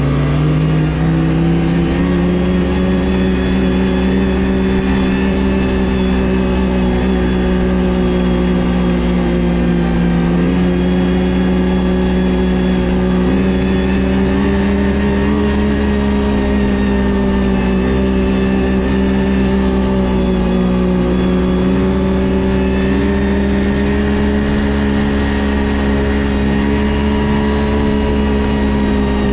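Ski-Doo GSX 600 HO snowmobile's two-stroke twin engine under way. The revs climb at the start, then hold fairly steady at cruising speed with a few brief dips.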